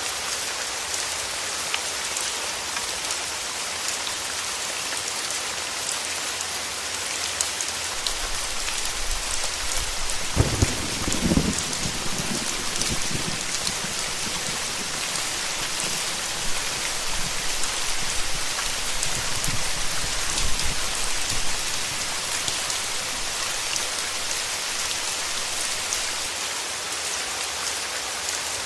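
Steady rain falling, a dense even hiss. About ten seconds in, a roll of thunder rumbles low beneath it and dies away over the next ten seconds or so.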